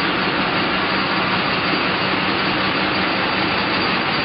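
Vintage belt-driven workshop machinery running off an overhead lineshaft, a loud, steady mechanical noise with no breaks.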